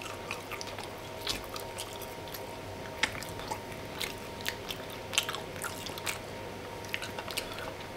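A person chewing a mouthful of steak, kumara and chimichurri close to the microphone: many small wet mouth clicks and smacks, over a faint steady hum.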